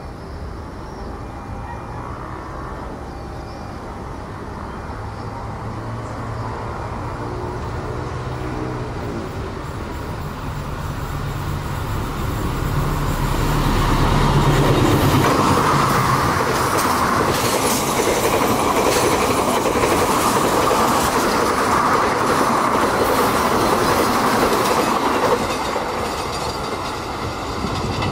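Diesel-hauled passenger train approaching and passing, the locomotive a GE CC206 diesel-electric. The engine hum grows louder over about a dozen seconds and is loudest as the locomotive goes by. After that, the coaches' wheels clack steadily over the rail joints, easing off near the end.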